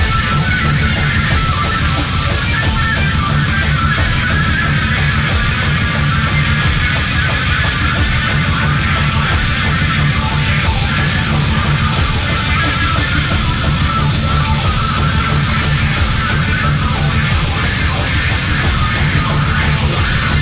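Live rock band playing a loud, dense heavy song with electric guitar, without a break.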